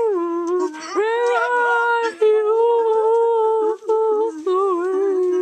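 A loud, drawn-out howl in long held notes that step and waver in pitch, broken by short gaps about a second in and near four seconds.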